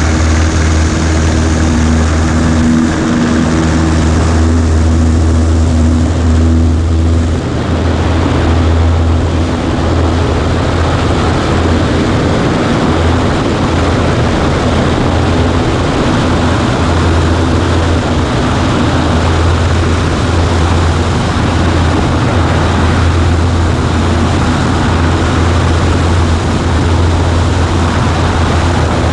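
Cessna 140A's engine and propeller running steadily. About seven seconds in the engine note changes and a broader rushing noise takes over.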